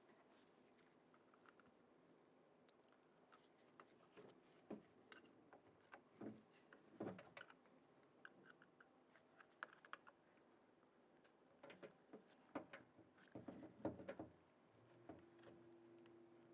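Faint, scattered clicks, taps and scrapes of plastic as the cover on a car door latch assembly is pried off its retaining tabs. A faint steady hum starts near the end.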